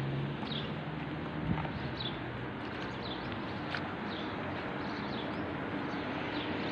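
Small birds chirping repeatedly, short high calls every second or so, over a steady outdoor background hiss.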